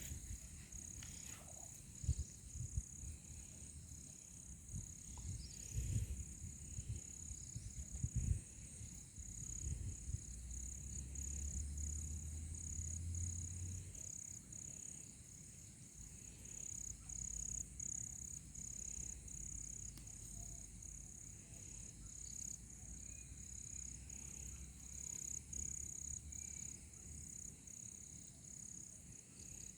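Insects chirring steadily in a high, slightly pulsing drone, with scattered low thumps and rumble over the first half.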